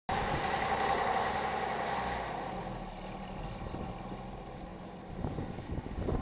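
Diesel engine of a Scania CMA bus passing and pulling away. It is loudest at the start and fades over the first few seconds. A few faint knocks come near the end.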